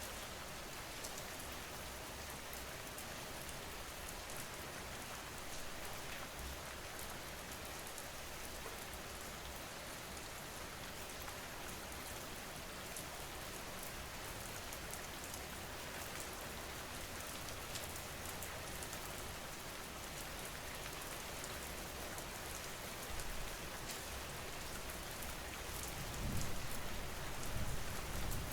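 Steady rain falling, a recorded rain ambience with fine drop patter. A low rumble swells near the end.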